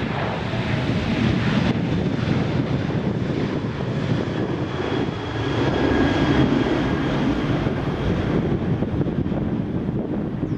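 Jet airliner engine noise mixed with wind on the microphone, with a faint high whine in the middle.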